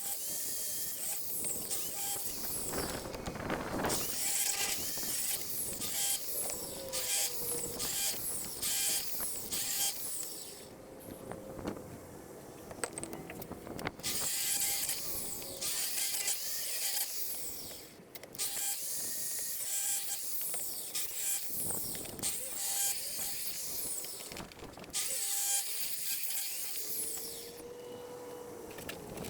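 Rasping, clattering mechanical work noise in spells of a few seconds, broken by short lulls about ten, seventeen and twenty-seven seconds in.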